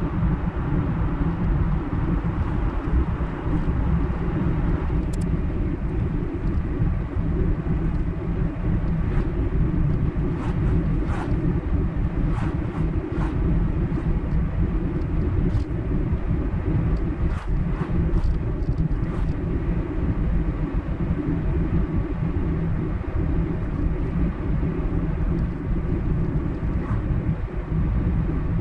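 A car travelling along a highway: a steady low rumble of road and engine noise, with light clicks now and then through the middle stretch.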